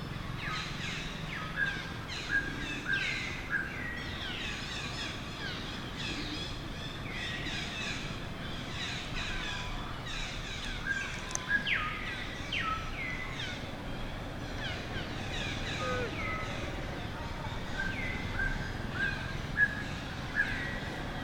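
Many high animal calls overlapping throughout: short chirps that slide downward in pitch, mixed with short repeated notes lower down.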